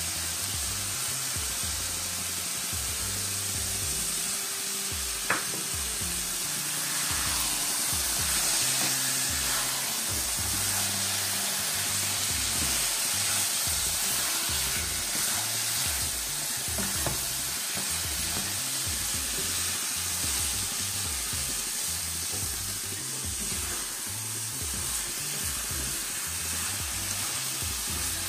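Grated carrot halwa with beaten egg sizzling in a nonstick frying pan as it is stirred and turned with a spatula, with a sharp tap of the spatula on the pan about five seconds in and another later. Background music plays underneath.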